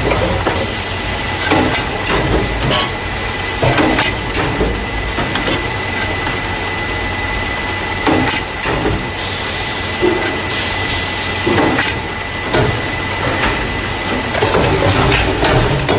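Carton caser, a machine that loads paper juice and milk cartons into plastic crates, running: a steady low rumble with a thin high tone, knocks and clacks of the mechanism every second or so, and a short burst of hiss about nine seconds in.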